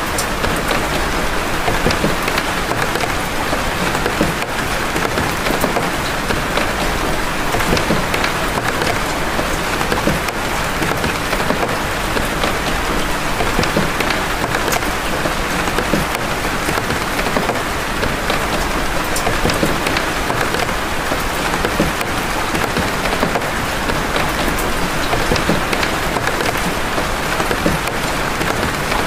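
Steady rain of big raindrops: many separate drop hits over an even hiss, with no letup.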